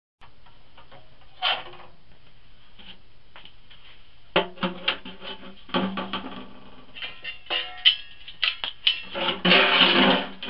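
Irregular metal clanks, knocks and scraping, like a shovel or poker working through wood ash in a stove's firebox and ash pan, with some brief metallic ringing. The scraping grows denser and louder near the end.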